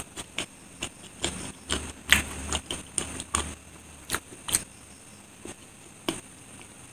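Close-miked chewing of a soft bread sandwich with chocolate cream: a quick run of wet mouth clicks and smacks that thins out to a few single clicks after about four and a half seconds.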